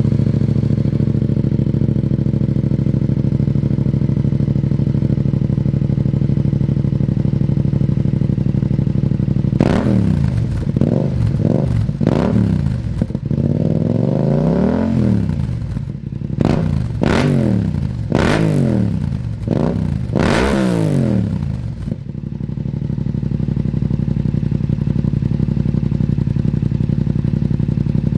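2019 Yamaha MT-07's parallel-twin engine, breathing through a full Akrapovic exhaust with the end-can baffle removed, idling steadily, then revved with a run of sharp throttle blips and one longer rev from about ten seconds in, before settling back to idle near the end.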